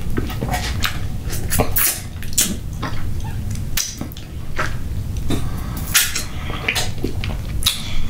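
Close-miked wet eating sounds: a person chewing and smacking, with many irregular sharp clicks over a steady low rumble.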